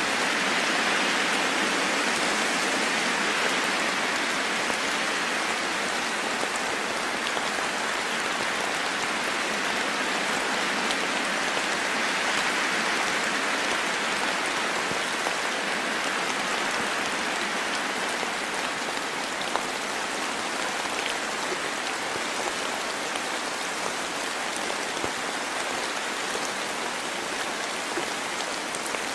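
Steady rain falling, an even, dense patter with faint scattered ticks of single drops.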